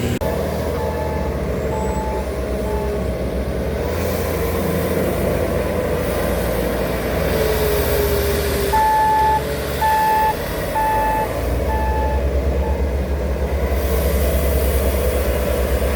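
Heavy diesel road-construction machinery running steadily with a reversing alarm beeping. Faint beeps in the first few seconds, then four loud beeps about a second apart around the middle.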